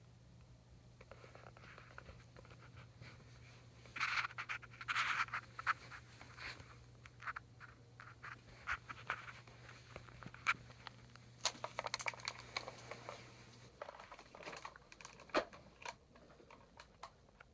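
Handling noise: scattered scratching, rubbing and sharp clicks, over a faint steady low hum that stops about fourteen seconds in.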